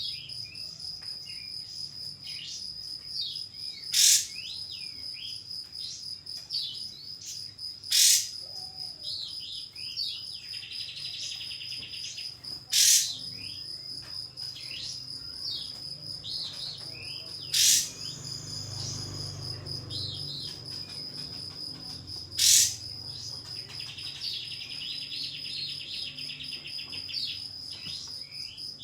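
Kapas tembak bird calling: five loud, sharp, whip-like 'shot' notes about every four to five seconds, with short chirps between and two buzzing trills. This is a challenge call meant to provoke a rival bird. A steady high insect-like whine runs underneath.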